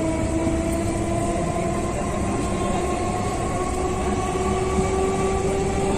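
Inside a moving electric local train (EMU): steady rumble of wheels on the track, with the traction motors' whine rising slowly in pitch as the train gathers speed.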